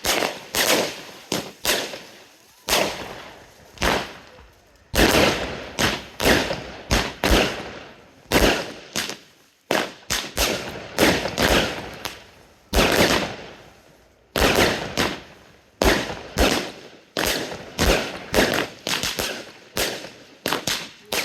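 Consumer F2 fireworks batteries firing: a long run of sharp bangs, about two a second with a few short pauses, each one echoing away.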